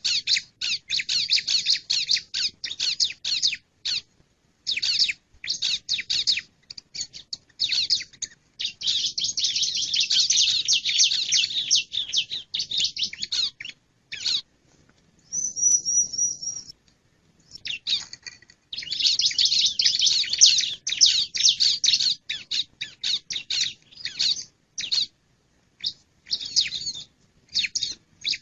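Male bar-winged prinia (ciblek) calling: fast runs of sharp, high chirps in bursts of a second to several seconds, broken by short pauses, with a brief high wavering trill about halfway through.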